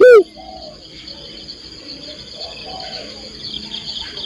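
Spotted dove (tekukur) cooing: one loud, arched coo note right at the start ends a phrase, then only softer coos follow. A steady high-pitched insect trill runs underneath.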